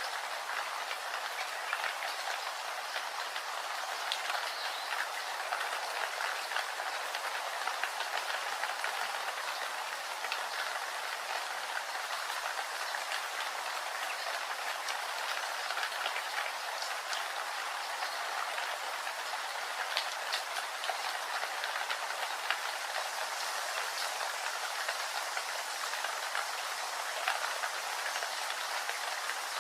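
Steady rain falling, a continuous hiss with scattered individual drops ticking through it.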